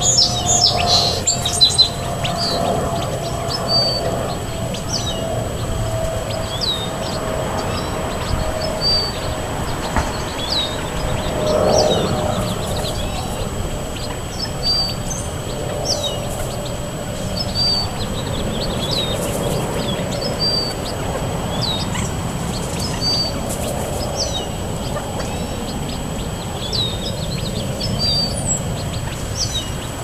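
Birds chirping: short high chirps repeated every second or so throughout. Under them is a faint low hum that dips slightly in pitch and swells briefly about twelve seconds in.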